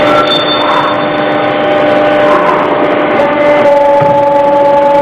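LDW 38 CNC mandrel tube bending machine running with a steady mechanical hum, its pitch stepping slightly about three seconds in as the machine works.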